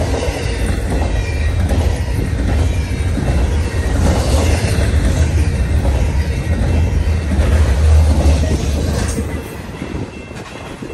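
Double-stack intermodal well cars of a freight train rolling past close by: a loud, steady rumble of steel wheels on the rails. The rumble drops off sharply about nine seconds in.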